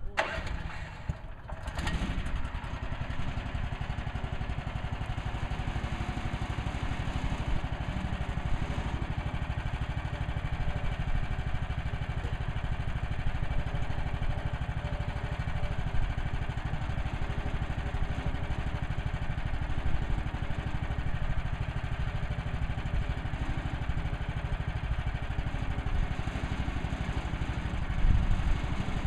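Engine of a Woodland Mills HM130 Max portable bandsaw sawmill running steadily. The sound drops briefly about a second and a half in, then comes back and holds.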